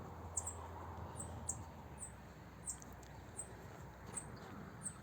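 A small bird calling over and over with short, very high chirps that slide downward, about two a second, over a faint low rumble.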